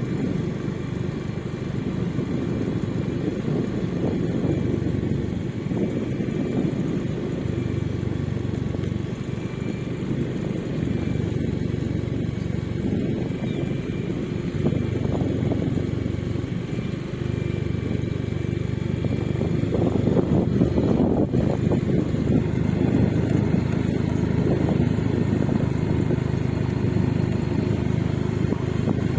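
Motorcycle running steadily while being ridden, a continuous low engine and road rumble that swells and eases a little.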